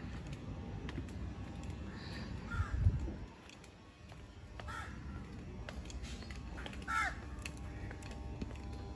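Three short bird calls a couple of seconds apart, over a low rumbling noise, with a low thump about three seconds in.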